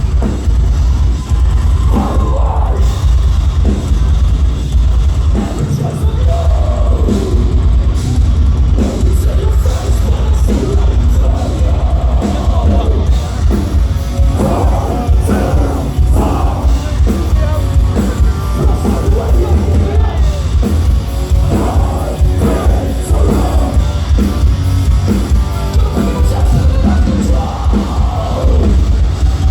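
A metalcore band playing live and loud, with heavy drums and distorted guitars dominating the low end, and sung and yelled vocals over them.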